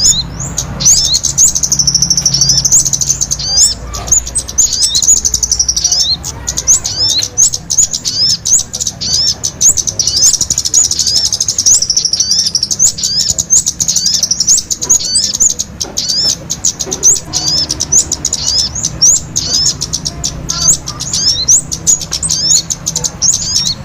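Small-bird lure recording: a dense chorus of many small birds twittering, a continuous stream of quick, high, rising chirps.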